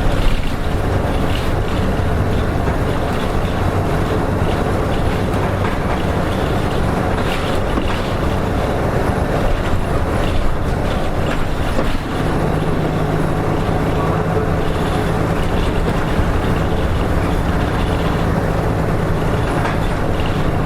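A Nissan Diesel RM-series bus's diesel engine running under way, heard from inside the bus, with road and body noise. About twelve seconds in the sound dips briefly, and after that the engine note sits higher.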